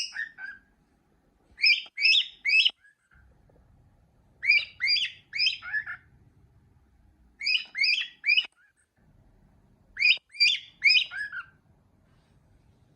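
A pet cockatiel whistling a short repeated phrase, four times. Each phrase is three or four quick sliding notes, and the phrases come about every three seconds.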